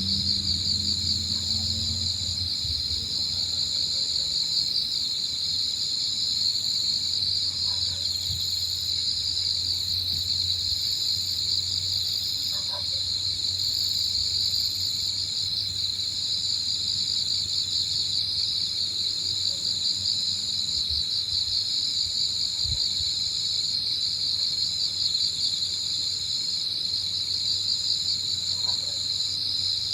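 Late-September insects chirping in a dense, steady chorus, with a higher-pitched layer that breaks off briefly every couple of seconds. A low hum fades out in the first couple of seconds.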